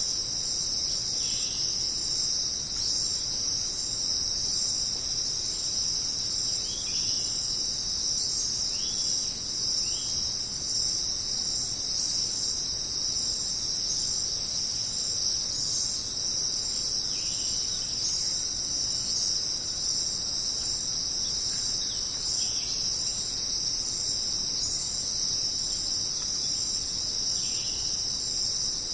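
Dense, steady, high-pitched chorus of jungle insects such as crickets, with a few short chirping calls now and then.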